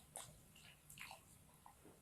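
Faint chewing of stir-fried rice stick noodles, with a few soft wet mouth clicks and smacks.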